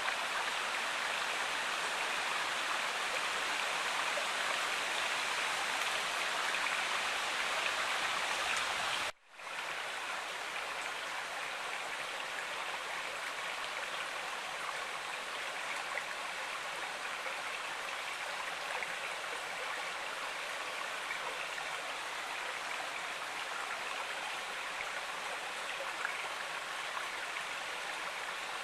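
Stream water running steadily. About nine seconds in it breaks off for an instant and resumes slightly quieter, as a cut to another stretch of flowing water.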